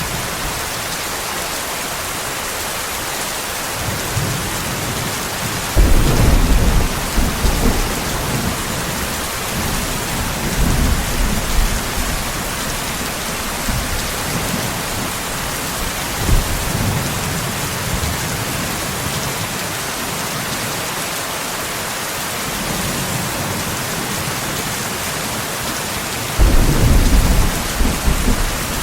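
Steady rain with rolling thunder. A strong rumble comes about six seconds in and another near the end, with fainter rumbles in between.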